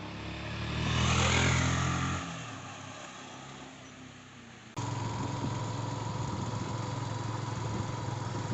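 A motorcycle engine passes close by, loudest about a second in, then fades away. About five seconds in the audio cuts abruptly to a steady motorcycle engine running at constant speed, with a thin steady whine above it.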